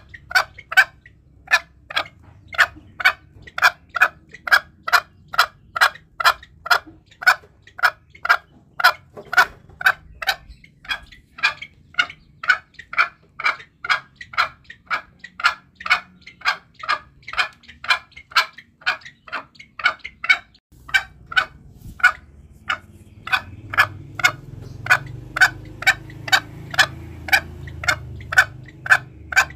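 Green junglefowl calling: a long, even run of short, sharp notes about two a second, with a brief break about two-thirds of the way through. This is a lure call used to draw junglefowl in.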